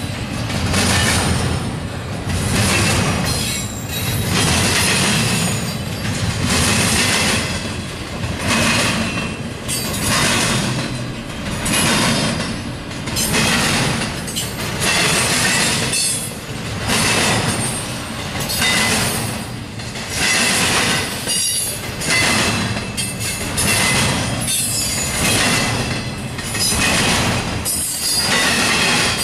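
Cars of a double-stack intermodal freight train rolling past: steel wheels running on the rails, with the rumble swelling each time a set of wheels goes by, about every second and a half to two seconds.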